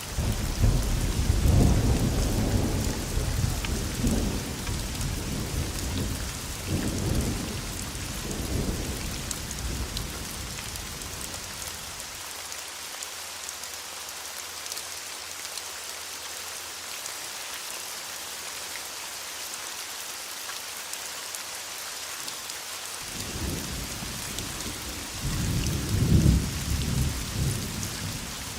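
Steady rain with two long rolls of thunder: the first rumbles in at the start and dies away after about twelve seconds, and a second builds about eight seconds later, peaking near the end.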